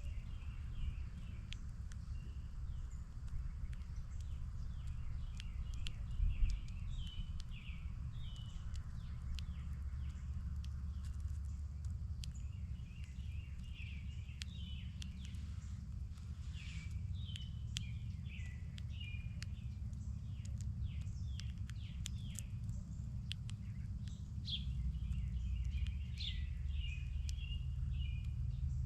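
Small songbirds chirping, many short quick notes in overlapping runs, over a steady low rumble.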